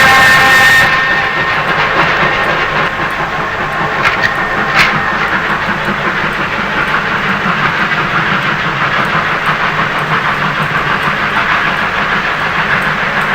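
Model BR Standard 4MT steam locomotive in 00 gauge running with steam sound: a whistle ending about a second in, then a steady rhythmic steam running sound with hiss. A single sharp click comes a little under five seconds in.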